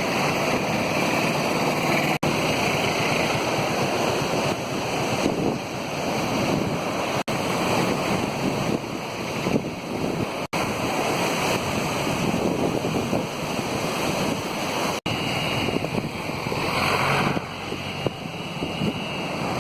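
Rushing floodwater of the overflowing Nila river: a steady, loud rush of water, cutting out briefly four times.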